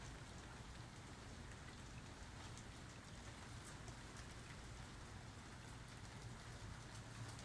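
Soft, steady rain falling, with scattered drops ticking.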